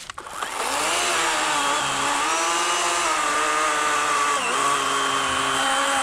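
Battery-powered 40-volt Worx WG384.9 electric chainsaw with an 18-inch Oregon bar cutting through a fallen log. The motor whine builds as it spins up, dips in pitch twice as the chain bogs under load, and stops suddenly. In this cut the log almost pinched the bar.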